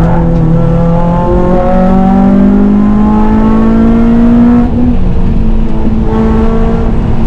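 FN2 Honda Civic Type R's four-cylinder K20/K24 engine pulling hard under full throttle. Its pitch rises steadily for about four and a half seconds, drops suddenly at an upshift, then climbs again, over steady road and wind noise.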